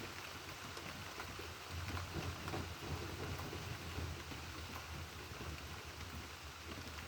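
Steady rain falling in a thunderstorm, with many fine drop clicks over an even hiss. A low rumble swells under it between about two and four seconds in.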